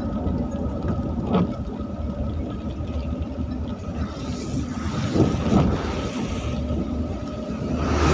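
Motor traffic on a rain-wet road: a steady low engine rumble with a hiss of tyres on wet tarmac that swells about four seconds in and again near the end.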